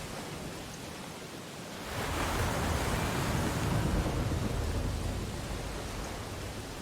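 Ocean waves on a beach: a wave breaks about two seconds in, and its wash swells, then slowly fades back to the steady background surf.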